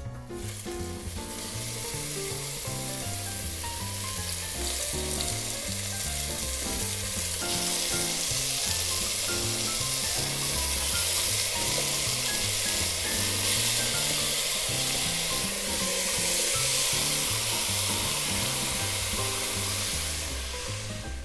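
Seasoned cod pieces sizzling as they sear in hot oil in a Dutch oven. The frying starts at once, grows louder over the first several seconds and holds steady, then eases slightly near the end.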